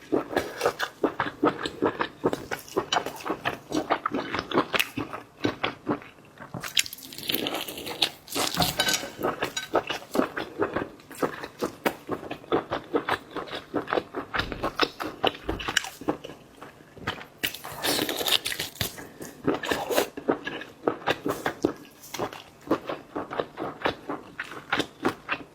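Close-miked eating of Boston lobster: crunching, chewing and mouth clicks, dense and quick throughout.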